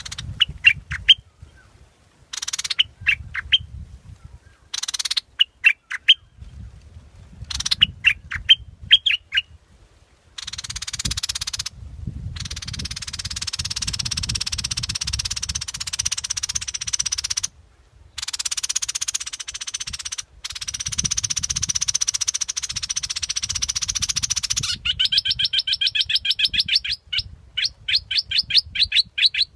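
Bulbul song played as a lure call: short bright chirping phrases with pauses, then a long steady buzzing hiss, and near the end a fast run of rapidly repeated chirps, about a dozen a second.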